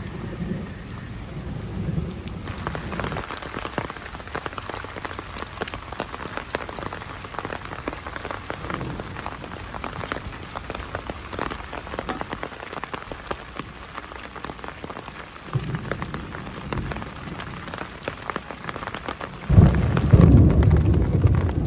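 Steady rain with a dense patter of drops on a surface. A deep low rumble comes in briefly, then swells loudly a couple of seconds before the end.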